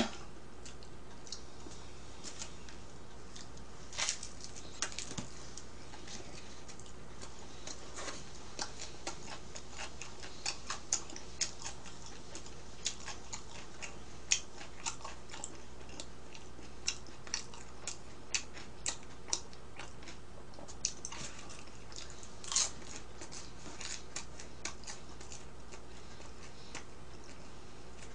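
A person chewing pizza close to the microphone: irregular soft clicks and smacks from the mouth over a steady low electrical hum, with a brief voiced sound right at the start.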